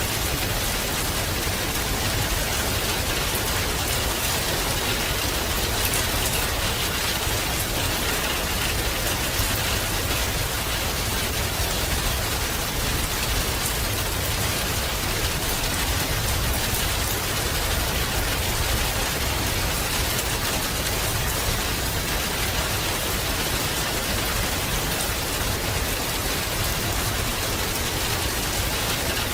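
Steady rain falling, a dense, even patter of raindrops with a low rumble underneath.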